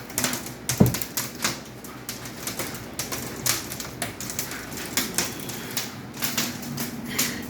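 Hailstones striking a door and windows of a house: a dense, irregular patter of sharp ticks, with one heavier thump just under a second in.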